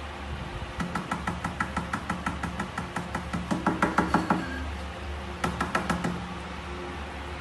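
Fingertips tapping quickly on a glass tabletop, about five or six taps a second, each with a short ringing tone. One run starts about a second in and gets louder until it stops past the middle, and a shorter run follows near the end.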